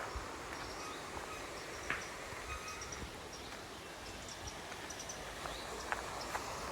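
Outdoor ambience: a steady background hiss with scattered short, faint bird chirps and a few light clicks.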